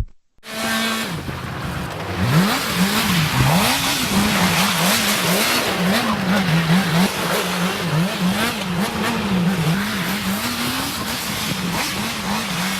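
Motorcycle engine revving up and down in repeated quick swells, somewhat more than once a second, over a steady hiss of tyres skidding on ice as the bike is drifted.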